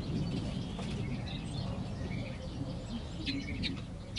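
Small birds chirping in short, scattered calls over a low steady rumble, with a quick cluster of chirps about three seconds in.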